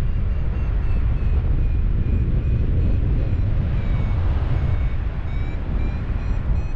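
Wind rushing over the microphone in flight, a loud low rumble, with a paragliding variometer beeping short high tones about twice a second. The beep pitch dips around four seconds in and then climbs again; beeping like this signals the glider is rising in lift.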